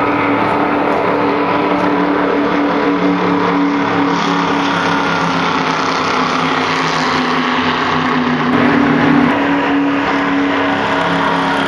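Stock race car's V8 engine running hard at a near-steady high pitch, shifting only slightly, over loud road and wind noise.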